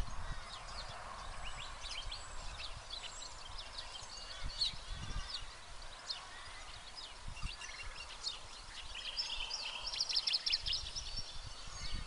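Wild birds calling with many short, high chirps and whistles, with a run of rapid chattering notes about three-quarters of the way through. Occasional low thumps sound underneath.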